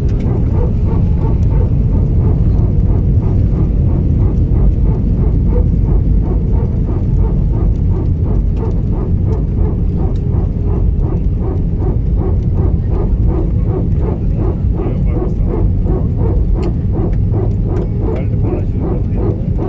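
Airliner cabin noise on landing: a loud, steady low rumble of the aircraft on the runway. From about eight seconds in, a quick regular pulsing of about two to three beats a second runs over it.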